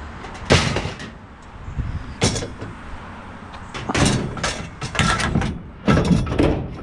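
Clanks and bangs of discarded junk being handled and moved about in a dumpster-area pile: a run of separate sharp knocks and clatters, heaviest in the second half.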